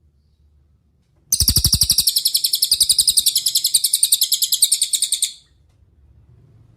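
Cililin songbird singing one rapid, high trill of about a dozen notes a second, starting about a second in, lasting about four seconds and cutting off sharply.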